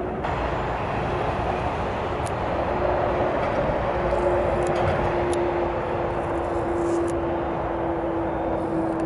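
Railway noise: a steady rolling rumble from a train on the line, with a steady humming tone coming in about four seconds in and holding to the end.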